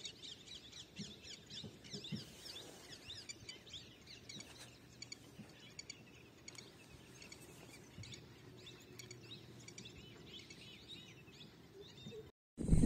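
Small birds chirping and calling over and over, faint, with a low steady hum underneath.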